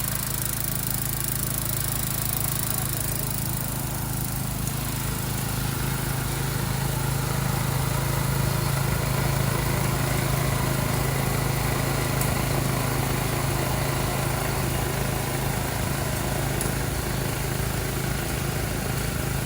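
Small engine running steadily with a constant low hum, growing a little louder partway through.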